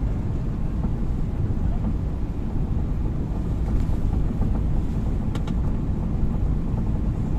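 Strong wind buffeting the microphone: a steady, fluttering low rumble.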